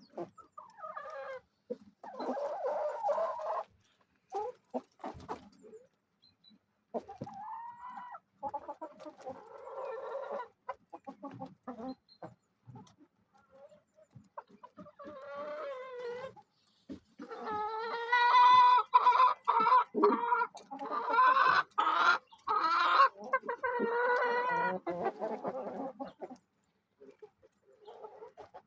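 Domestic chickens clucking and calling on and off. In the second half the calls get louder and longer.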